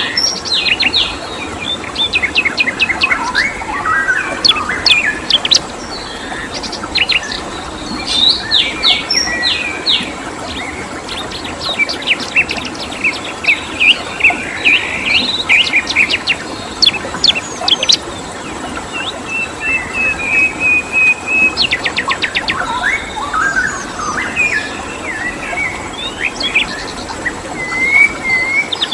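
Several songbirds chirping and twittering in quick, overlapping calls, with a short steady whistled trill about two-thirds of the way through, over a constant rush of flowing stream water.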